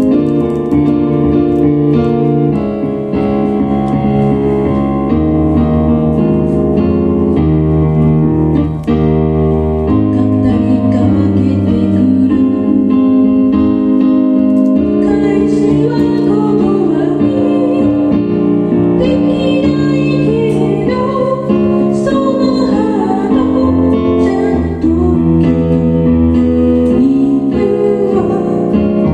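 A band playing a song in rehearsal: piano/keyboard chords over bass, with a singer's voice coming in about ten seconds in.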